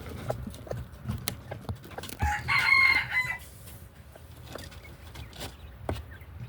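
A rooster crowing once, a single call of about a second, two seconds in. Light clicks and knocks are heard throughout.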